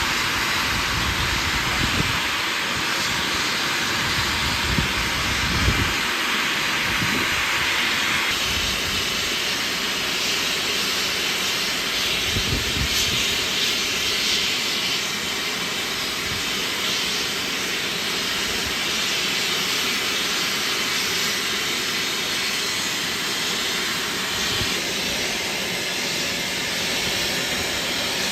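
Steam hissing loudly and steadily from LNER A3 Flying Scotsman as it prepares to move off with its cylinder cocks open, with a few low thumps along the way.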